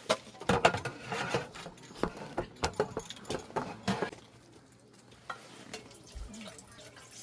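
A metal utensil stirring and clinking in a pot or pan, a quick run of sharp clicks and knocks that thins out after about four seconds.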